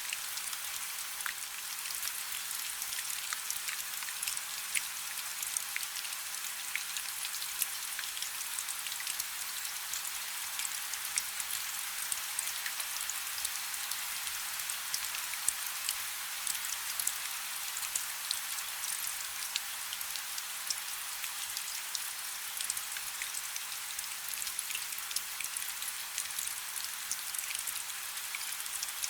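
Light rain falling steadily: an even, high hiss thick with small, close drop ticks, with almost no low rumble.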